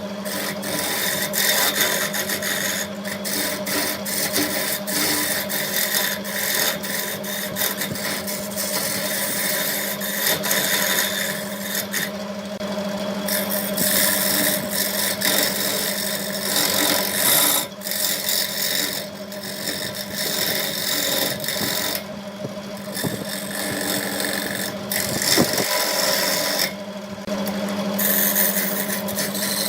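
Wood lathe running with a steady motor hum while a turning tool cuts into the spinning wood, giving a rough scraping sound. The cutting noise breaks off briefly a few times as the tool is lifted from the wood.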